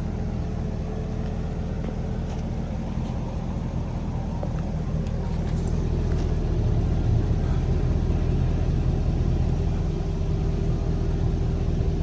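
2005 C6 Chevrolet Corvette's 6.0-litre LS2 V8 idling steadily through its original stock exhaust, growing slightly louder about halfway through.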